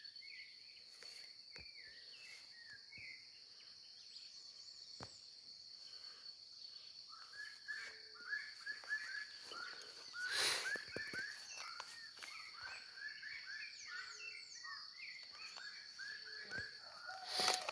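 Countryside ambience: a steady high-pitched insect drone with birds chirping, the chirps growing busier and faster from about seven seconds in. A brief rustling burst comes about ten seconds in and another near the end.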